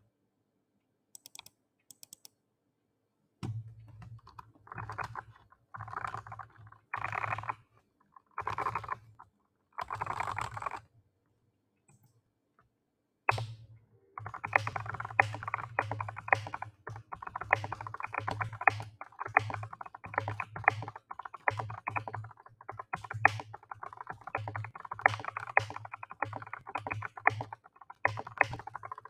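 BK98 mechanical keyboard being typed on: a few light clicks, then five short, fast flurries of keystrokes. After a brief pause, continuous fast typing runs from about halfway through, each stroke a click with a low thud.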